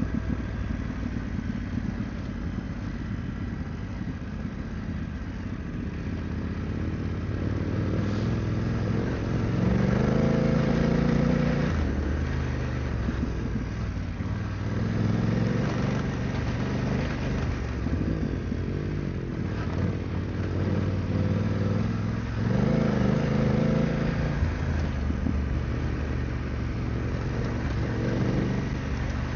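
BMW GS adventure motorcycle engine running under way on a dirt trail, the engine note swelling and easing several times as the throttle opens and closes, over steady wind and riding noise.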